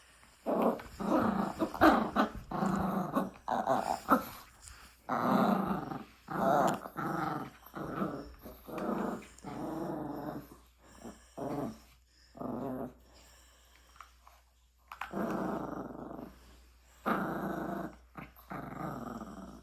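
A small dog, a Yorkshire terrier, growling in repeated rough bouts of under a second to about a second each, with a lull of a couple of seconds about two-thirds of the way through.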